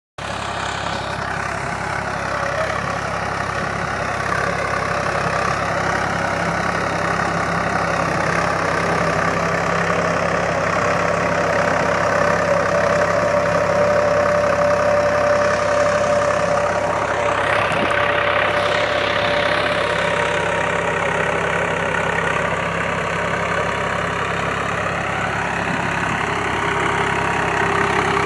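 Tractor engine running steadily, a continuous even engine note.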